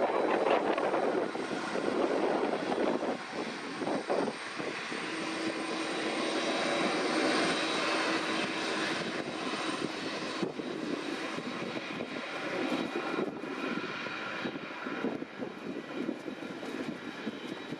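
Jet engines of a Cargojet Boeing 767-200 freighter running at taxi power: a steady rush with a faint, constant high whine.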